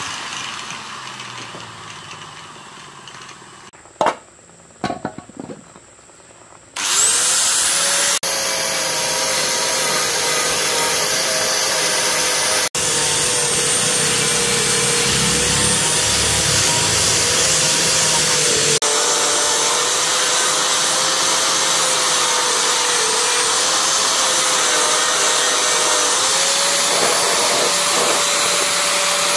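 A handheld electric power tool winding down, its pitch falling, then a few sharp clicks. About seven seconds in it starts up again with a rising whine and runs steadily, its pitch dipping slightly now and then as it works the metal.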